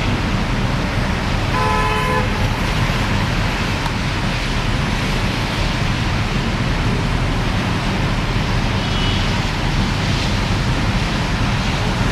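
Steady noise of road traffic driving on a wet road in the rain, with a car horn sounding once, briefly, about two seconds in.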